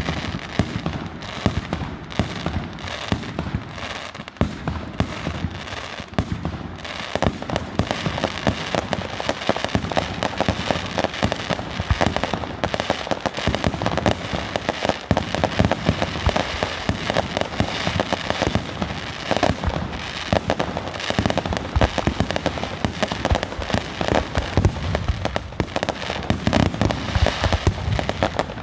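Aerial fireworks display: shells bursting in rapid, overlapping bangs with crackling, a near-continuous barrage that grows denser about seven seconds in.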